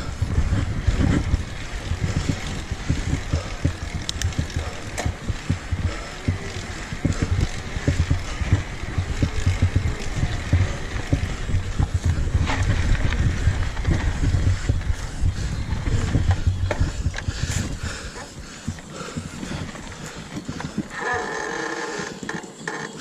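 Mountain bike descending a rough trail: heavy wind rumble on the microphone with the bike rattling and knocking over bumps. It quietens about three-quarters of the way through, and a short pitched squeal-like tone sounds near the end.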